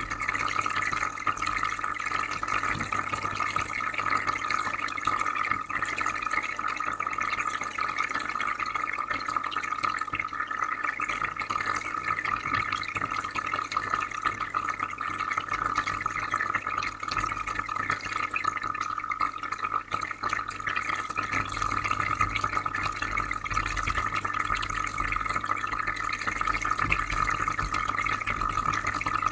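Aquarium filter running: steady bubbling, trickling water over a low, even hum.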